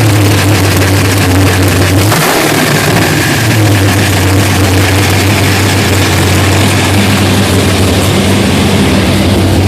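Grudge race car's engine running loud and steady on its first start-up, with one quick rev about two seconds in.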